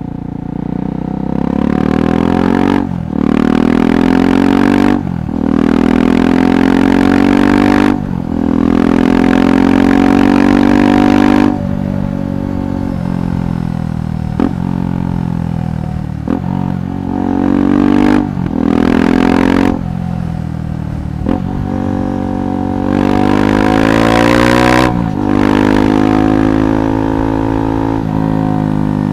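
KTM 390 Adventure SW's single-cylinder engine through a Red Rooster aftermarket exhaust, accelerating through the gears: the note rises and breaks off sharply at each upshift, every two to three seconds. Midway it eases off with a falling note and short blips, then pulls hard again before settling to a lower steady cruise near the end.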